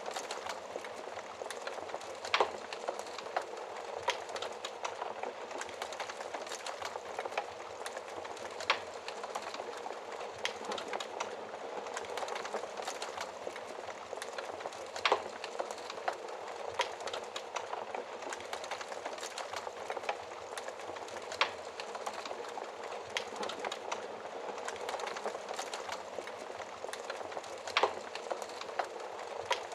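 Fire crackling in a fireplace: a steady hiss with many small snaps. A louder pop stands out about every six seconds.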